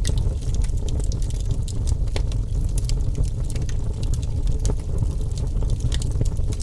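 Wood fire crackling: many small, sharp pops and snaps at irregular moments over a steady low rumble of the burning flames.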